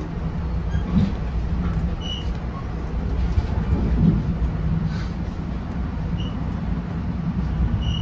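NJ Transit Comet passenger coach rolling along the track, heard from inside the car: a steady low rumble with occasional faint knocks and brief high squeaks.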